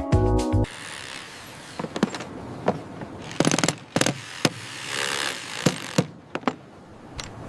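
Renovation work: scattered knocks and clicks from hand tools, with a short run of power-tool noise in the middle, after music cuts off just under a second in.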